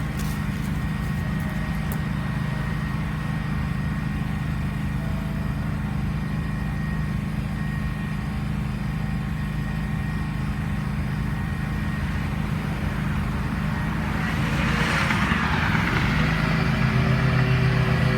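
Lawn mower engine running steadily under load while cutting grass. About three-quarters of the way through there is a rush of noise, and the mower grows louder as it comes closer.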